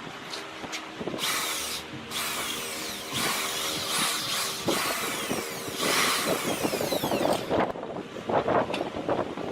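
Power tool working wood: a steady motor hum with several loud bursts of cutting noise, and a fast, rough chatter near the end.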